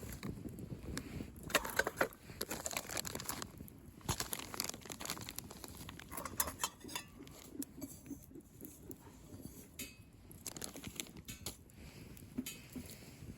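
Wood fire crackling, with irregular clicks, rustles and light clinks as sticks and embers are moved about, busiest in the first few seconds.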